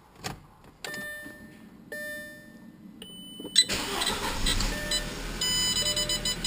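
Two short electronic chime tones from the car's dash, then the 2008 Audi A4 2.0 turbo's engine cranks and starts about three and a half seconds in, with a high-pitched intermittent squeak over the cold-start idle. The owner traces this cold-start squeak to the timing belt cover.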